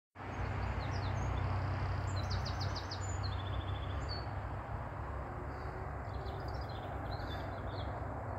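Small birds chirping a number of times, with a quick run of notes and a short trill about two to three seconds in, over a steady low rumble and hiss of background noise.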